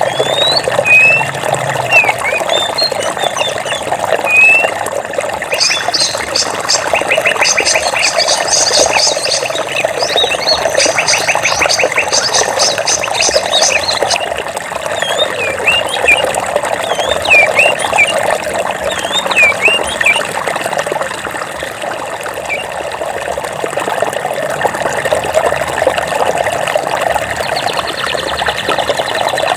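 Steady flowing water with birds chirping over it. A fast, rattling trill comes in for several seconds in the middle, and another near the end.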